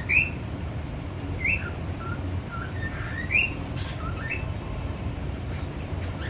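Pet parrot whistling a run of short upward-sweeping chirps, the loudest three spaced a second and a half or so apart, over a steady low rumble in the background.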